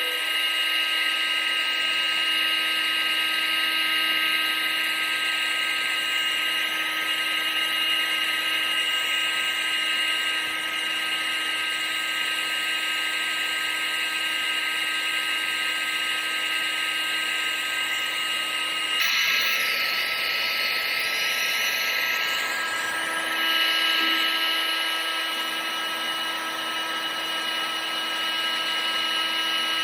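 Electric motor and fan of a household appliance, the vacuum cleaner or hair dryer recording used as white noise, running steadily with a high whine over a rushing air noise. About 19 seconds in, the whine shifts slightly in pitch for a few seconds, then settles again.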